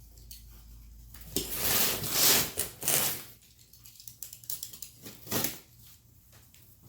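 Cardboard and plastic packaging being cut and pulled open, with rough scraping and rustling noises about one and a half to three seconds in, another short one past five seconds, and small clicks between.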